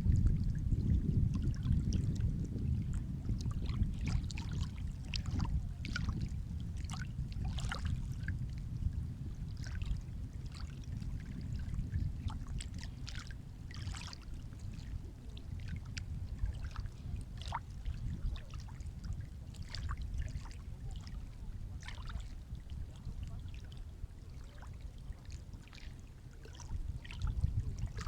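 Sea waves washing in: a low rumble loudest in the first few seconds that slowly eases, with scattered small splashes and trickles of water throughout.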